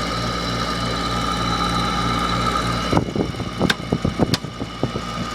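Hampton Bay 8,000 BTU window air conditioner running on low fan with a steady hum and a slight pulsing throb, a unit its owner considers worn out. About three seconds in, a run of irregular knocks and clicks takes over and the hum mostly drops out until near the end.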